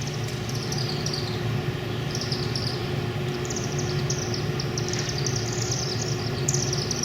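Chimney swifts giving their rapid, high chittering twitter again and again, each series dropping slightly in pitch, the loudest a little before the end. A steady low hum runs beneath.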